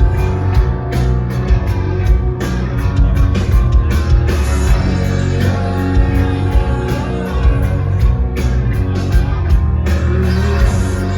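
Live rock band playing loud at a concert, heard from the crowd: distorted guitars over a heavy bass and a steady drum beat.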